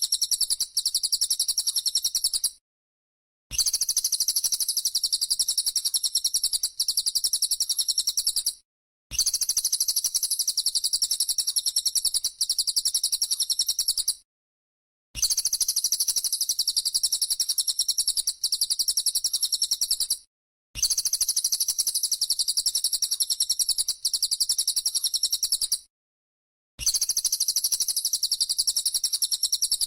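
High, very fast buzzing trill of a 'bren' cicada, repeated in runs of about five seconds, each broken off by a gap of about a second. It plays as a looped recording for songbirds to learn from.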